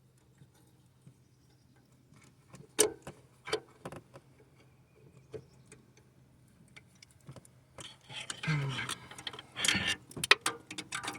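Ratchet wrench clicking in short, irregular bursts while tightening an exhaust manifold stud, with small metallic knocks of the tool; the clicking grows busier and louder near the end.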